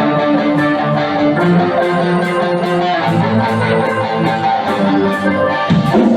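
A band playing, with guitar to the fore over a steady cymbal tick about three times a second.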